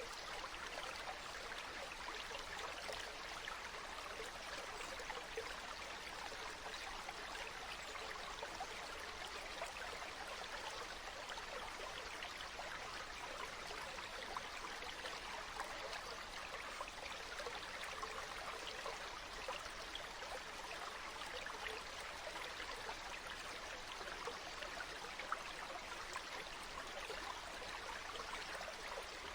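Flowing water, a steady trickling and burbling of a small stream.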